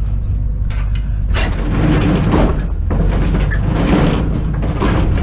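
A heavy stainless-steel barbecue being rolled along on wheels that drag rather than turn freely: a rattling, scraping rumble with scattered clicks from about a second and a half in, over a steady low rumble.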